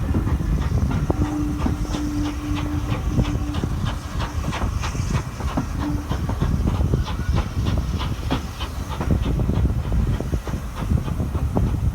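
Train hauled by an Ivatt Class 2 steam locomotive running along the line: a steady low rumble with the rapid clatter of wheels over the rails and a hiss of steam.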